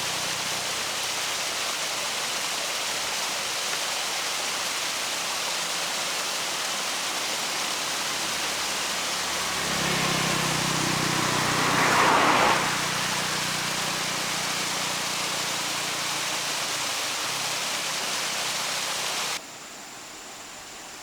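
Steady rushing noise, with a motor vehicle's engine swelling and passing about ten to twelve seconds in. The noise cuts off abruptly near the end.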